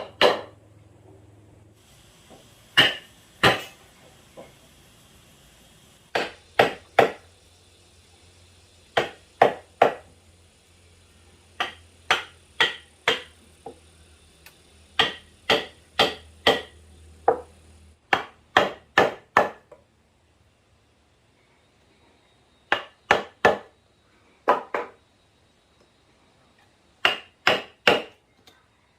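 Hand tool striking wood in quick runs of two to four blows, with short pauses between runs.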